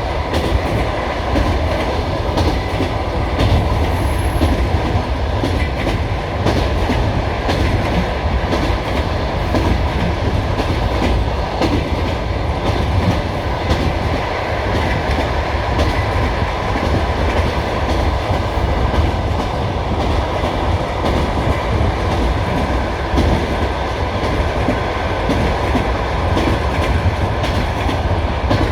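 Passenger train carriage rolling along the track, heard from inside: a steady loud rumble with the clickety-clack of the wheels over rail joints.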